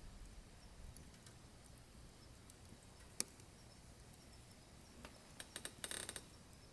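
Burning wood crackling in a wood stove: faint scattered ticks, one sharp pop about three seconds in, and a quick run of crackles near the end.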